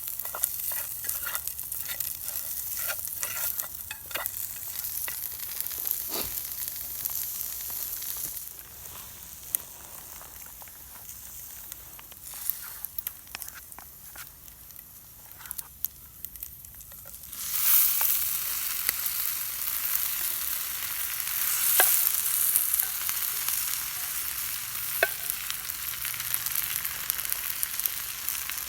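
Food sizzling and frying in a pan, with small clicks and scrapes of stirring. The sizzle drops quieter for a stretch in the middle, then comes back louder about two-thirds of the way in.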